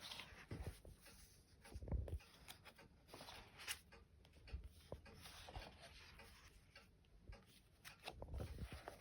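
Faint rustling and light clicks of a thin paper book being handled and its pages turned, with a few soft knocks of the book against a surface.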